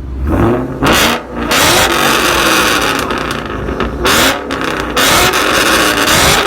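Car engine revved hard over and over, very loud, its pitch sweeping up and down with surges about a second, a second and a half, four, five and six seconds in. The loudness is put down to headers on the exhaust.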